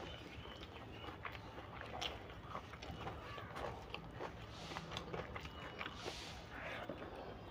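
Chewing a full mouthful of egg noodles, with many small wet mouth clicks. Fingers scrape noodle scraps off a banana leaf now and then.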